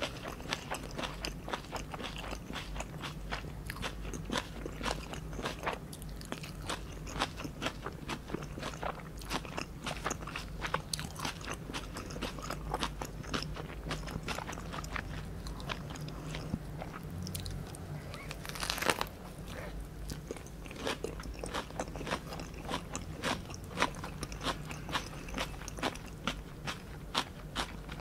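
Close-miked chewing and biting of fresh Vietnamese spring rolls: rice paper wrapped around crisp lettuce and crab stick, giving dense crunching and mouth clicks throughout, with one louder crunch about two-thirds of the way through.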